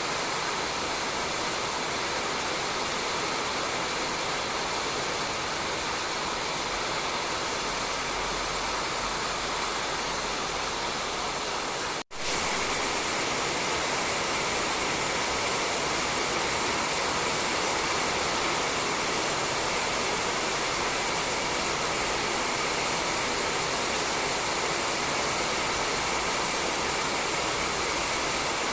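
Steady rain falling on a roof, an even hiss. About twelve seconds in it cuts out for an instant and resumes slightly louder.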